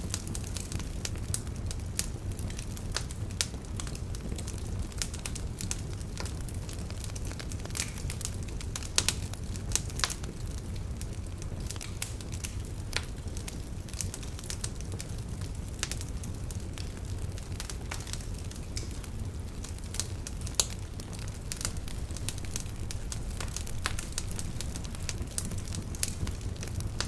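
Wood fire burning in a fireplace: logs crackling and popping at irregular intervals, with a few louder pops, over a steady low rumble of the flames.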